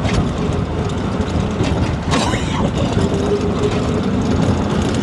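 Steady engine and road noise of a moving vehicle, heard from inside as it drives.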